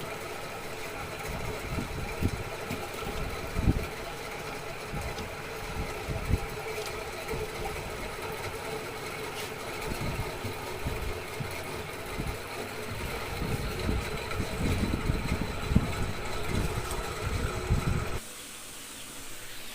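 A machine's steady running hum with irregular low thuds, cutting off suddenly near the end.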